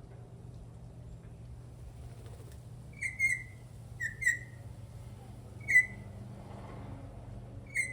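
Venezuelan troupial singing: six short, clear whistled notes, mostly in pairs, the loudest a little before six seconds in. A steady low hum runs underneath.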